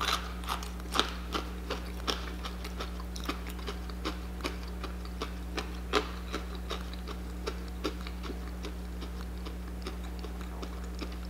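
A person chewing crunchy fried chicken close to the microphone: crisp, irregular crunches about two or three a second, sparser and fainter toward the end, over a steady low hum.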